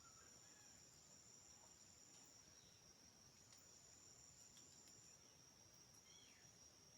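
Faint, steady high-pitched insect chirring, with a second, higher-pitched insect tone dropping out and coming back, and a few faint short chirps.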